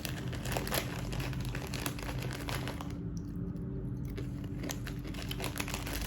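A crunchy spicy snack being eaten from its packet: irregular dry crunching and crinkling clicks, which drop away for about a second around the middle.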